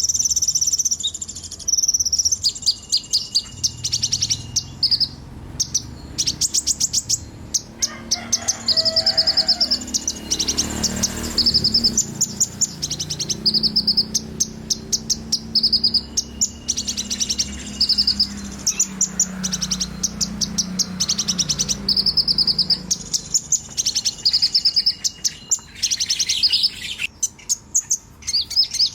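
A young songbird singing continuously: fast trills and repeated high whistled phrases, one after another with only short breaks.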